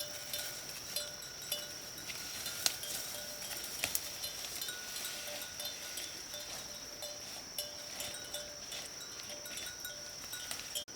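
Forest insects, crickets or cicadas, keeping up a steady high-pitched drone, with short repeated tonal calls coming and going over it and a few sharp clicks.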